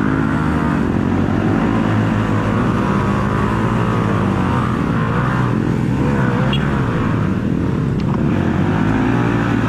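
Off-road motorcycle engine running, its pitch rising and falling with the throttle.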